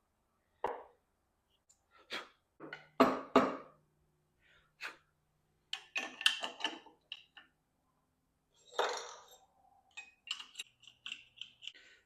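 Irregular clinks, taps and knocks of hard parts being handled and set down, with a short scraping rustle near the middle.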